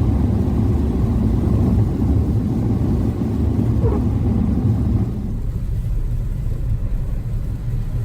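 Steady road and tyre rumble inside the cabin of a moving 2014 Chevrolet Spark EV, an electric car with no engine note. The rumble eases a little about five seconds in.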